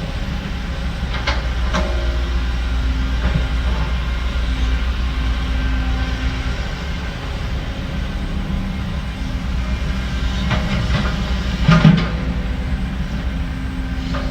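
Heavy diesel earthmoving machinery running steadily with a deep rumble, with scattered metal clanks and one louder knock near the end.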